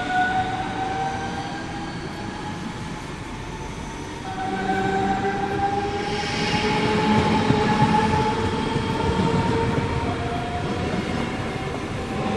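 Train running on the line with a steady rumble of wheels on track. Over it, a machine whine with several tones rises slowly in pitch, drops back about ten seconds in, and starts rising again.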